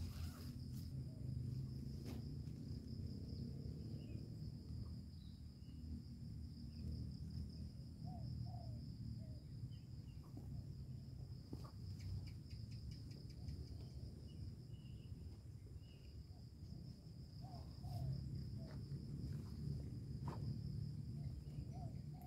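A steady, high-pitched chorus of insects chirring in the forest, with a low rumble underneath and a few short chirps scattered through it.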